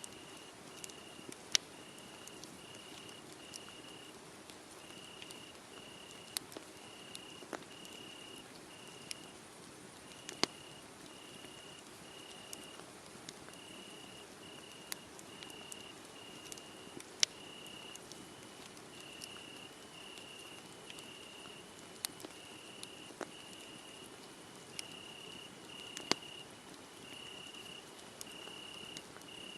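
Crickets chirping steadily, about two high chirps a second, over a crackling wood fire with scattered sharp pops, the loudest about four times across the stretch.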